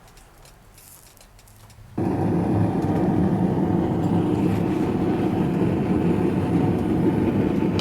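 Quiet room tone with faint ticks, then about two seconds in a loud, steady rushing noise from workshop equipment starts abruptly and keeps running.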